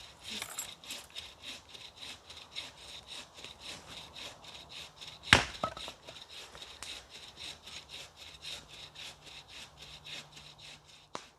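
Rapid back-and-forth scraping strokes, about three or four a second and very even, with one sharp knock about halfway through.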